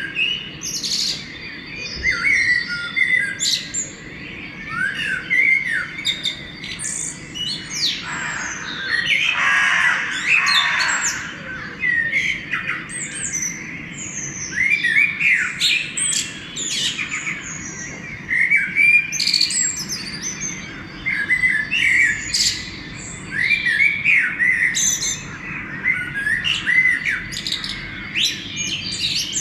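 Dawn chorus of many songbirds singing and calling over one another in short, overlapping phrases. A harsher, noisier call stands out from about eight to eleven seconds in.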